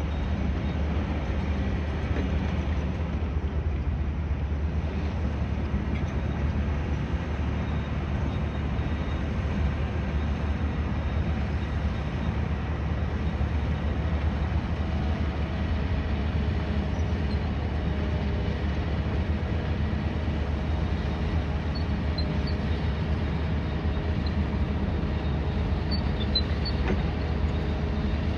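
Steady low rumble of city ambience around a building construction site: traffic and machinery hum that stays even throughout, with a faint steady engine tone joining about halfway through.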